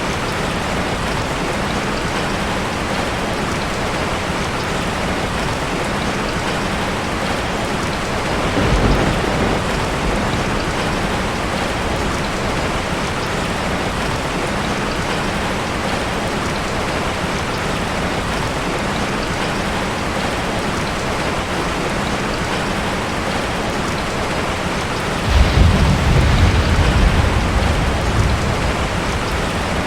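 Heavy rain falling steadily on a tin roof. Thunder rumbles briefly about nine seconds in, and a louder, longer roll of thunder comes near the end.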